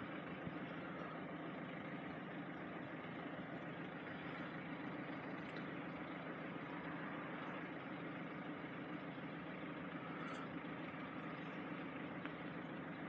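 Faint, steady rumble of road vehicle engines idling.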